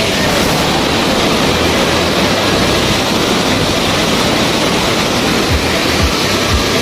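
Fast, swollen mountain river rushing below, a loud, steady, unbroken wash of water noise. Low thumps come in near the end.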